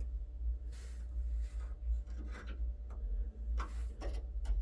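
Scattered small clicks and knocks, about six in all, over a steady low rumble, as the aftermarket radio's controls are tried. No sound comes from the radio itself.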